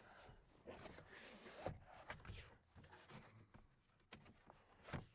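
Faint scuffing and rubbing of styrofoam board being pressed into a truck window frame, with a few soft knocks. The loudest knock comes a little before the end.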